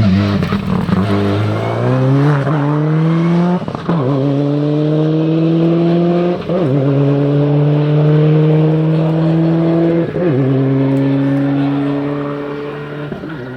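Four-wheel-drive rally car accelerating hard away down the stage, its engine rising in pitch and shifting up through the gears several times, each gear held longer than the last, then fading as it drives off near the end.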